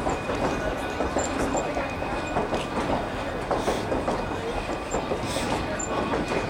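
Narrow gauge railroad coach rolling slowly over the track: a steady rumble of wheels on rail with irregular clicks, knocks and rattles, and a few brief faint squeaks.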